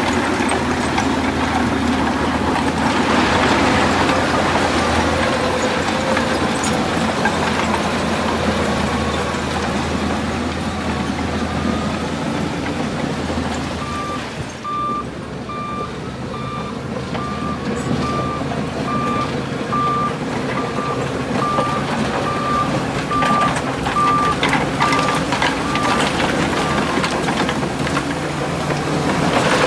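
Heavy diesel earthmoving machinery, a bulldozer working gravel, running steadily. A reversing alarm beeps at an even pace from about halfway through until near the end.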